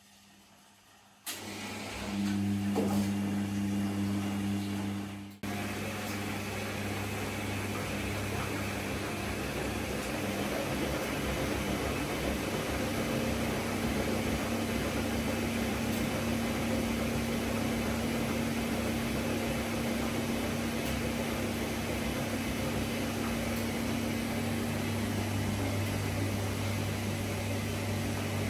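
A Gorenje PS 1008 BM washing machine running, a steady mechanical hum that starts abruptly about a second in and shifts abruptly to a slightly different steady hum about five seconds in.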